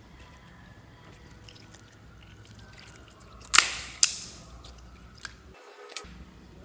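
Slime being mixed by hand, with two loud sharp pops about half a second apart, then two lighter clicks near the end.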